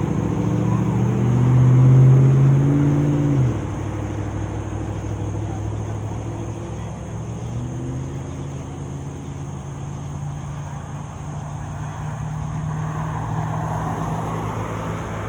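A car engine revs up, peaking about two seconds in, then drops off suddenly to a steady engine hum. Near the end the rush of another vehicle passing swells and fades.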